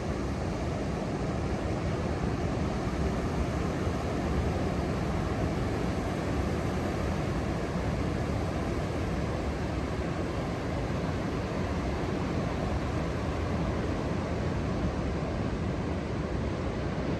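Steady rush of Indian Ocean surf with wind, an even wash of sound with no single wave or event standing out.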